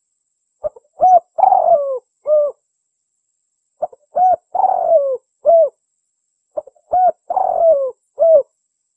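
Spotted dove (tekukur) cooing its song three times, about three seconds apart. Each phrase is a quick short note, two coos, a longer falling coo and a final coo. It is a contest dove's song, used as a lure call for wild doves.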